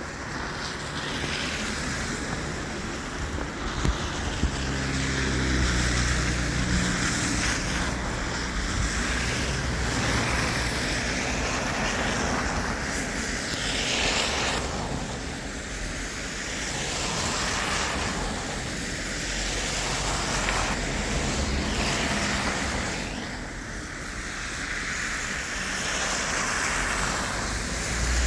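A vehicle engine's low rumble under a steady rushing, wind-like noise that swells and fades every few seconds.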